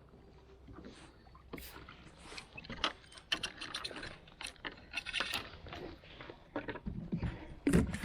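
Irregular knocks, clicks and scrapes against a kayak as a freshly landed catfish and gear are handled on board. The noises begin after a quiet second or so and grow busier, with the loudest knock near the end.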